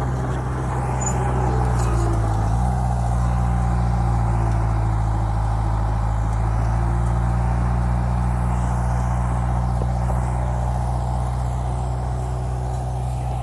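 Heavy diesel engine of an earthmoving machine running steadily, its pitch stepping up slightly about two and a half seconds in.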